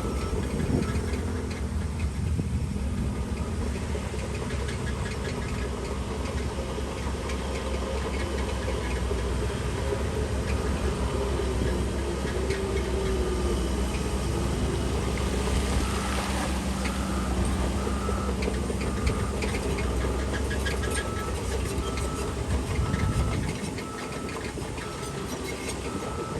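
Diesel engine of a Shantui DH17C3 bulldozer working under load, its pitch rising and falling. A regular high-pitched beeping sounds at times, and the deep engine rumble drops off near the end.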